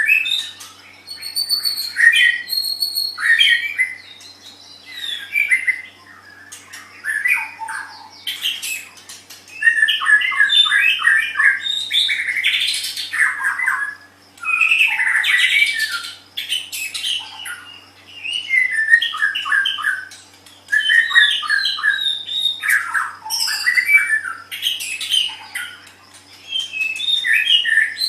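White-rumped shama (murai batu) singing loudly in varied phrases of a few seconds each with short pauses between: rich whistles, harsh notes and fast runs of repeated notes.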